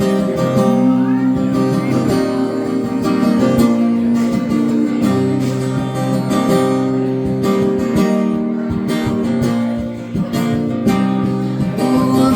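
Live country music instrumental break: acoustic guitar strumming steady chords, with no singing.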